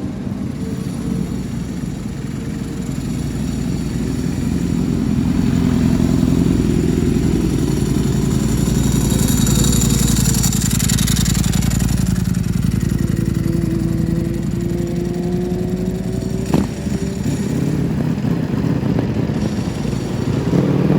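Vehicle engines running and passing close by, their pitch rising and falling, louder through the middle. There is a single sharp knock about two-thirds of the way through.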